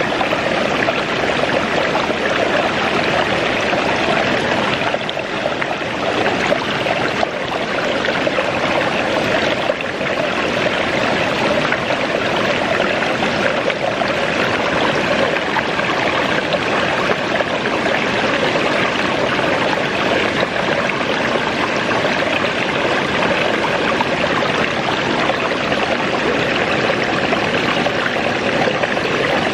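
Waterfall and creek water rushing steadily.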